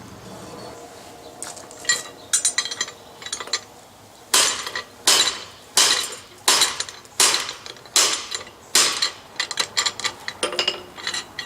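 Hand hammer striking a guillotine tool's butcher blade against hot steel bar, setting in the shoulder of a tenon. A few light taps come first, then seven heavy ringing blows about 0.7 s apart, then lighter taps near the end.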